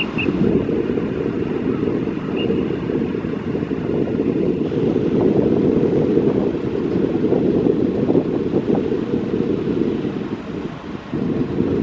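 Steady low rumble of wind buffeting the microphone, briefly easing near the end.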